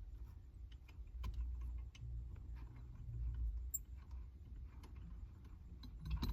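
Scattered light metallic clicks and taps as a harmonic balancer puller's bolt is worked by hand into a steering wheel hub, the bolt going in stubbornly, over a low rumble.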